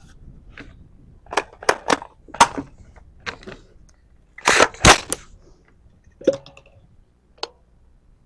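Sharp metallic clicks and clacks of a .308 rifle being loaded and its action worked, with a loud double clack about halfway through.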